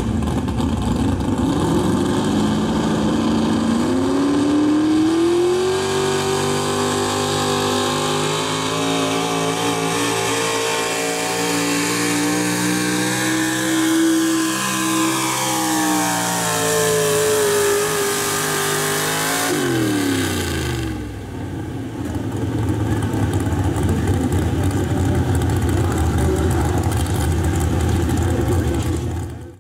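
Gas-engined 4x4 pulling truck running a pull. The engine revs up over a few seconds and holds high revs for about fifteen seconds. Then the revs drop off sharply as the throttle is released, leaving a rough, lower rumble.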